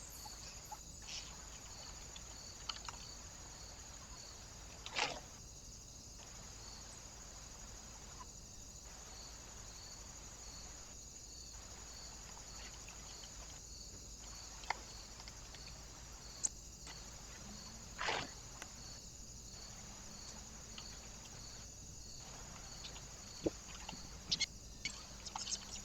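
Trail camera recording of a quiet scene: a steady high-pitched electronic hiss with a faint regular ticking about twice a second, broken by a few sharp taps, the loudest about five seconds in and about eighteen seconds in, and a quick cluster near the end.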